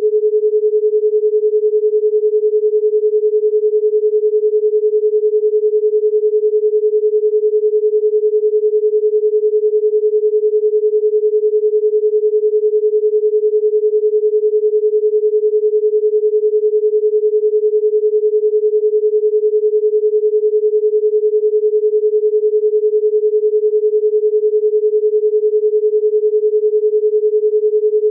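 A single steady pure tone a little below 500 Hz, like an electronic test tone, holding one pitch and level without a break.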